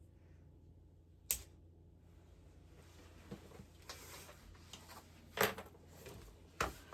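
Quiet room tone with a steady low hum, broken by three short sharp clicks, the loudest about five and a half seconds in.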